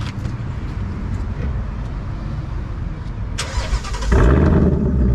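2020 Mustang Bullitt's 5.0 L V8, fitted with an H-pipe exhaust, cranking and starting about four seconds in, then idling loudly with a deep, steady exhaust note. Before it, a lower engine rumble.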